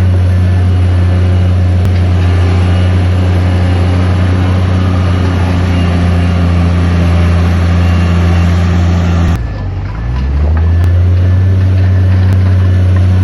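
Heavy diesel engine of earthmoving machinery running steadily at high revs. A little past nine seconds in it dips sharply in pitch and loudness, then climbs back to its steady note within about a second.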